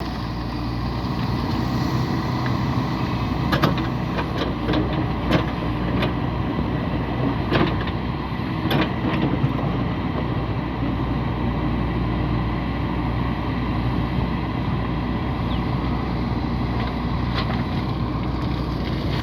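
JCB 3DX backhoe loader's diesel engine running steadily, with a cluster of sharp clanks from about three and a half to nine and a half seconds in.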